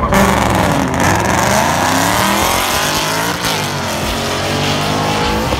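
Two cars launching side by side in a drag race, their engines revving hard and rising in pitch, with a break about three and a half seconds in before the note climbs again.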